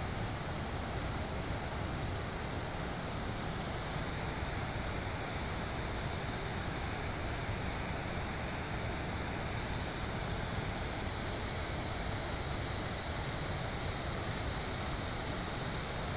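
Steady rush of a waterfall's falling water, an even noise with no breaks.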